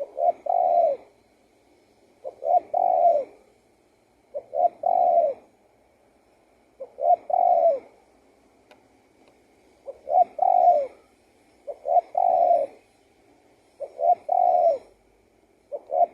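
Spotted dove cooing its song over and over: a phrase of two short coos and a longer falling coo, repeated about every two seconds, seven times or so.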